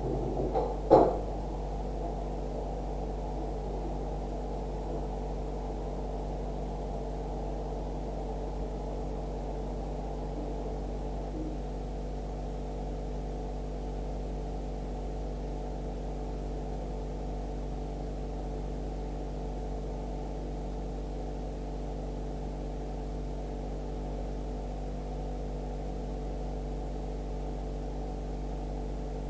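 Steady, muffled low electrical hum made of several fixed tones, with a single knock about a second in.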